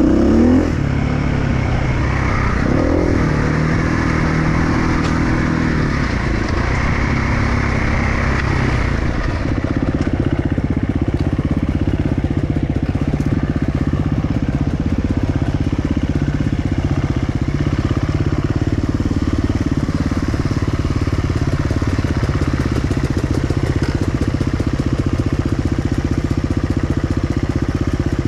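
Enduro motorcycle engine running under throttle. Its pitch rises and falls for the first several seconds, then holds fairly steady.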